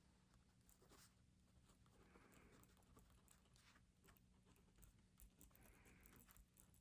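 Near silence with faint scratching of writing on paper, in two short spells, and a few light taps over a low room hum.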